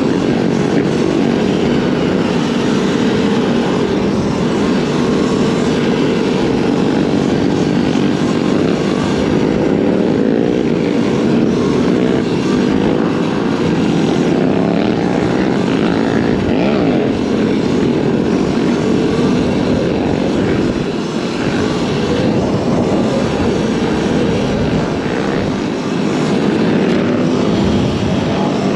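Dirt bike running along a trail, a steady drone that rises and falls in pitch, with rushing noise over it.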